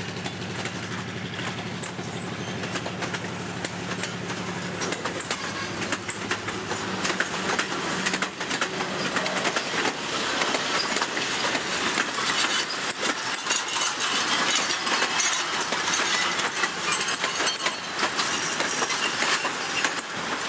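Railroad freight cars, a caboose and wooden passenger coaches rolling past, their steel wheels clicking over the rail joints and getting louder from about halfway through. The diesel engine of the train's EMD SW1200 switcher hums in the first few seconds and fades away as the locomotive moves off.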